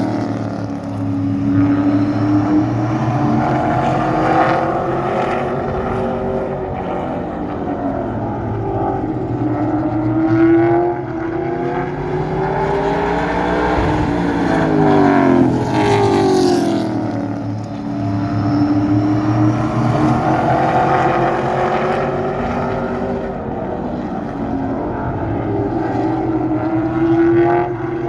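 A car engine running, its pitch rising and falling again and again as it is revved up and eased off, with several long climbs and drops.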